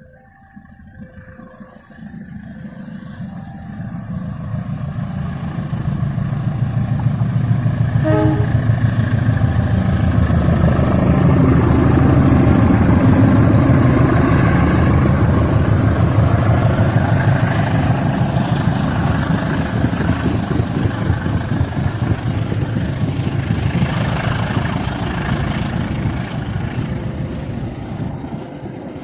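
A diesel-hauled train going past: the engine and wheel noise builds steadily over several seconds, is loudest near the middle, then slowly fades as it moves away.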